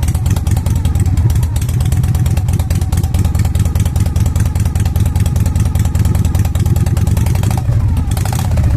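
Harley-Davidson Shovelhead V-twin engine idling steadily with an even, rapid beat of firing pulses.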